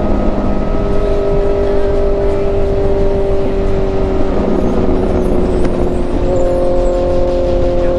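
Motorcycle engine running at a steady road speed over a low rumble of wind and road noise. Its note shifts about four seconds in and settles on a higher steady pitch about six seconds in.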